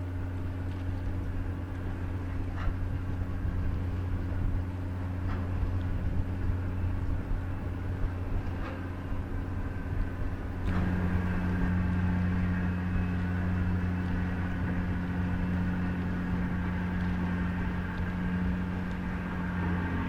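Steady low hum of the lake freighter John G. Munson's diesel engines. About halfway through, a second, higher tone joins the hum and it grows slightly louder.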